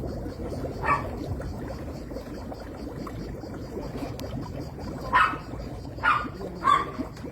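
A dog barking four times: once about a second in, then three barks in quick succession near the end, over a steady low background noise.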